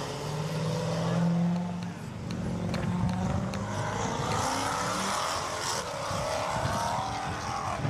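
Performance car engine on a race track, holding a steady note for a few seconds, then rising and falling in pitch as it revs through the second half.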